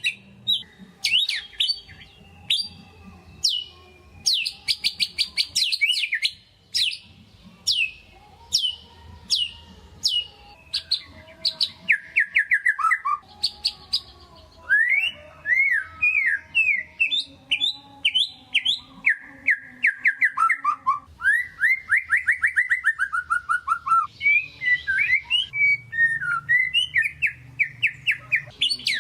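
White-rumped shama singing in full song: a long, varied run of fast repeated notes, quick falling whistles and rattling trills with hardly a pause.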